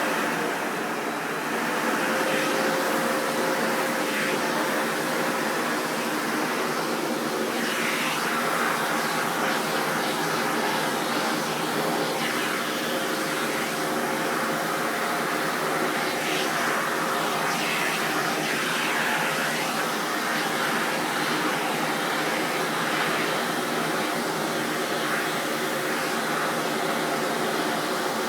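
Vacuum cleaner running steadily with a constant whine; the sound dips and the whine drops out for a moment about a second in, then holds steady again.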